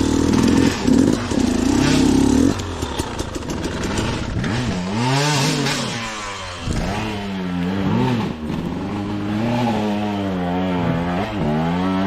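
Two-stroke dirt bike engine revving hard for the first couple of seconds, then revving up and down over and over as the throttle is worked on and off.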